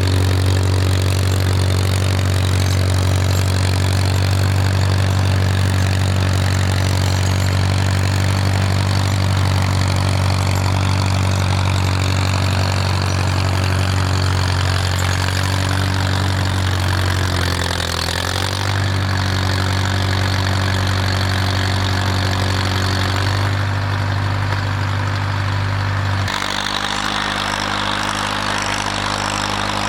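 Farmall tractor's engine running steadily. Its speed dips and recovers briefly about two-thirds of the way through, and its tone changes near the end.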